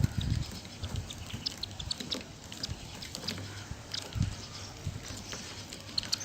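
Sparrows chirping in short, scattered notes while feeding, with a few low thumps, the loudest just after the start and about four seconds in.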